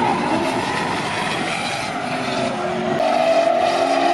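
Drift car engines running at high revs during a tandem battle, the pitch wandering up and down, then holding a steadier, louder note from about three seconds in.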